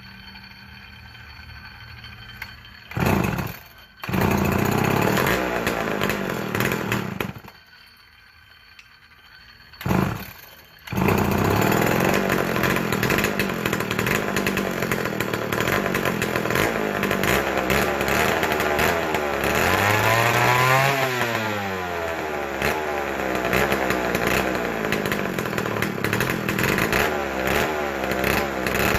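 Two-stroke McCulloch chainsaw engine starting, running for a few seconds and dying, then starting again after a short burst about ten seconds in and running steadily, revved up and back down once about two-thirds of the way through.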